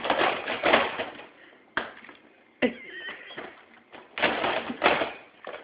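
A baby's hands scratching at a hard toy surface: a few short scratchy bursts with a couple of sharp knocks in between.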